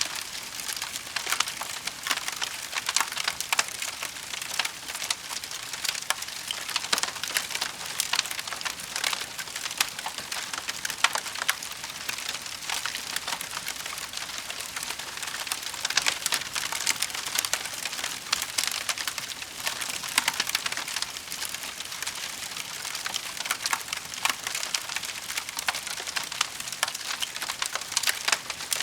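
Wood fire burning, with a steady stream of small crackles and pops from the burning logs.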